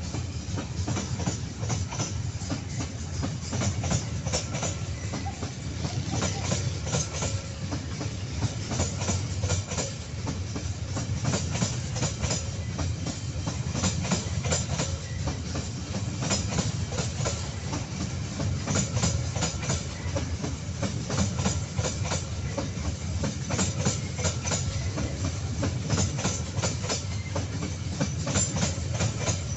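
KAI Babaranjang coal freight train's wagons rolling past, with a steady low rumble and clusters of clicks as wheel sets cross the rail joints, repeating every second or two.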